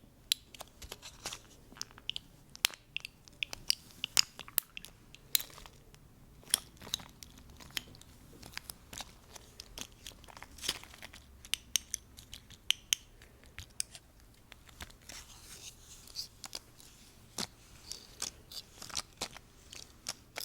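Fast, irregular close-up taps and clicks, dozens of sharp short hits at uneven spacing, with a brief soft rustle near the end.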